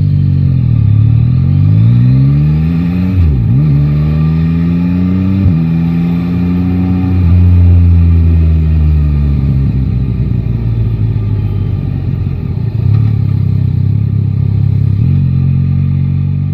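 Yamaha Tracer 9 GT's three-cylinder engine pulling the bike up through the gears: the pitch climbs, drops sharply at upshifts about three and five and a half seconds in, then falls away as the bike slows and settles to a steady run.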